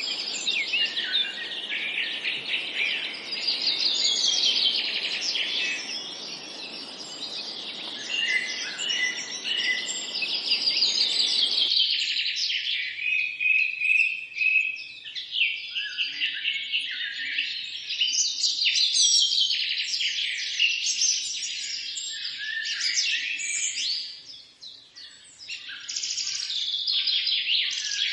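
A dense chorus of several songbirds chirping and trilling over one another. A low rushing background noise under the birdsong stops abruptly about twelve seconds in, a splice between two recordings, and the birds carry on over a quieter background.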